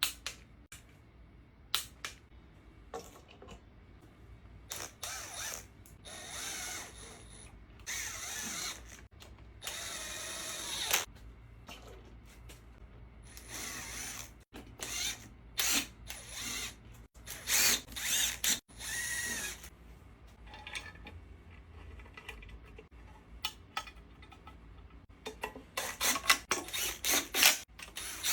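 Ratchet wrench and hand tools being worked on an engine: short bursts of ratcheting and scattered metal clicks, with a quick run of bursts near the end.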